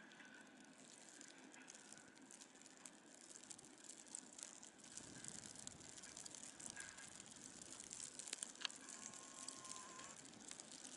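Near silence: faint outdoor ambience with a few scattered faint clicks and short faint tones.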